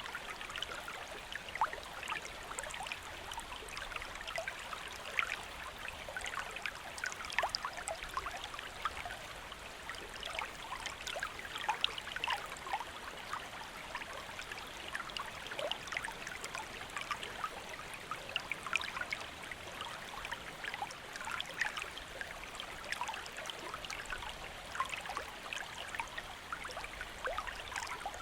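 A stream flowing over rocks: a steady rush of water dotted with constant quick little splashes and bubbling.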